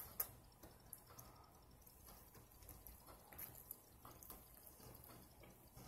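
Faint, wet mouth sounds of someone eating a burger: quiet chewing with a few soft lip-smacking clicks, over a low room hum.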